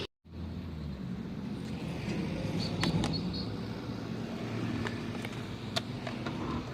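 Road traffic running past: a steady low rumble of vehicles, with a few sharp clicks or taps near the middle and toward the end.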